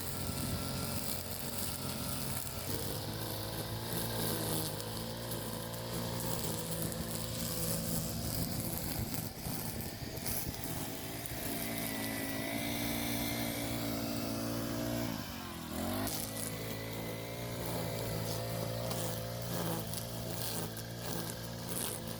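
Small petrol engine running steadily, its pitch dipping briefly and recovering about fifteen seconds in.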